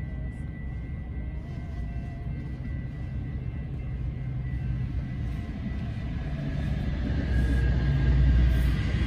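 GO Transit commuter train, a diesel locomotive hauling bilevel coaches, passing over a level crossing, heard from inside a car. A low rumble builds from about six seconds in and is loudest near the end as the locomotive crosses.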